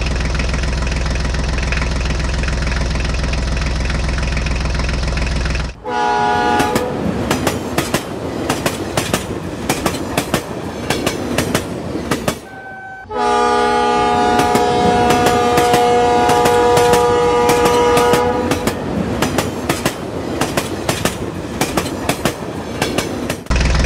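Toy freight train running on its plastic track: rapid clickety-clack of wheels over the rail joints throughout. Train horn sounds: a steady droning horn chord with a low rumble cuts off about six seconds in, and a long horn blast sounds for about five seconds past the middle.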